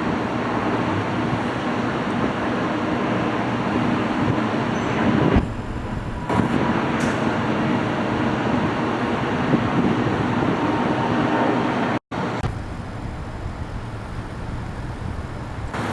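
Jet airliner engines at takeoff power, heard as a loud, steady wash of sound, broken off and resumed by abrupt cuts about five and a half seconds and twelve seconds in.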